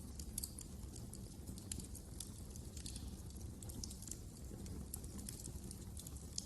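Wood fire crackling in a fireplace: irregular sharp pops and snaps several times a second over a steady low rumble of the flames.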